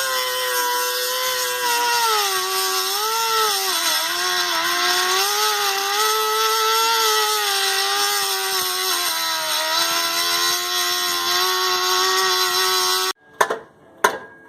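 High-speed power cutting tool running continuously with a harsh hiss, its motor pitch sagging and recovering as it bites, typical of cutting through a stuck exhaust pipe. It stops abruptly near the end, followed by a couple of sharp metal knocks.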